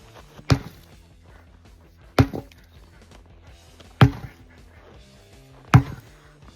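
A 10-pound sledgehammer striking a large tire four times, about once every second and three quarters, each blow a sharp thud. Background music plays underneath.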